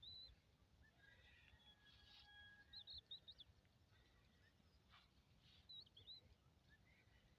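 Faint small-bird chirps: brief high notes in three little clusters, over a very quiet outdoor background.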